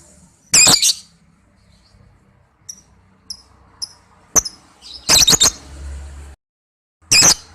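Lovebirds giving loud, shrill screeching calls: one burst about half a second in, a single sharp call and then a quick run of three around four to five seconds in, and one more near the end, with a few faint short chirps between. The sound drops out completely for about half a second before the last call.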